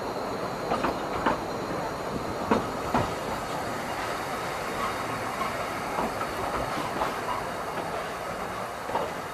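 Narrow-gauge railway carriage in motion: a steady running noise from the wheels on the track, broken by scattered, irregular knocks and clicks.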